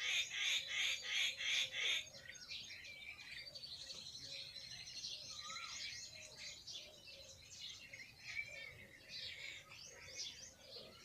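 Small birds chirping and calling in a busy mix of short high notes. A loud, evenly pulsing high-pitched sound, about three or four pulses a second, stops abruptly about two seconds in.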